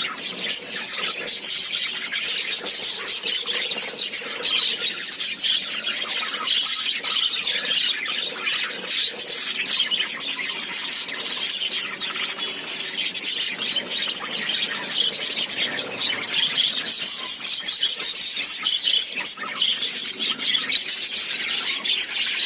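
A group of small pet parrots chattering and chirping without pause, a dense overlapping mix of high-pitched squeaky calls.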